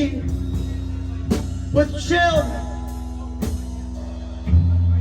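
A live rock band playing without words: held guitar and bass notes over a few drum hits, with a louder low bass note coming in near the end.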